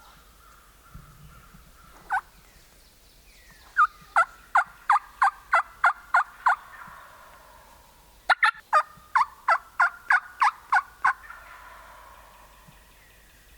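Wild turkey yelping: a single note, then two runs of about eight loud, evenly spaced yelps, each note dropping in pitch.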